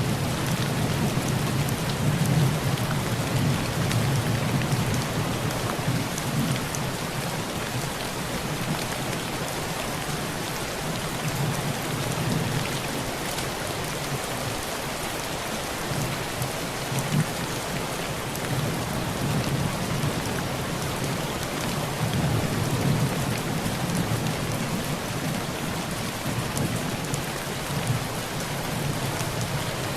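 Heavy rain falling steadily on a tin roof, with low thunder rumbling on and off, strongest at the start and again about two-thirds of the way through.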